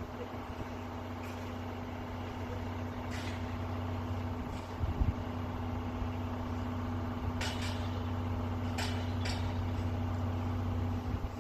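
Tobu Railway Revaty limited express train pulling out: a steady electric hum with two constant low tones, slowly growing louder. Several short sharp hisses or clicks and one low thump come over it.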